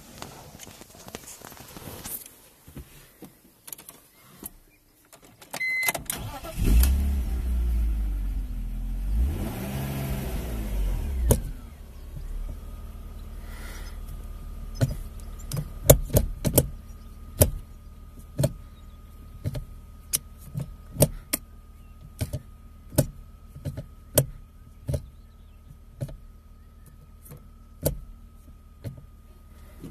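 BMW E46 323Ci's 2.5-litre straight-six heard from inside the cabin: it starts about six seconds in, is revved once and settles into a steady idle. Over the idle come a long run of sharp clicks as the short shifter is moved through the gates.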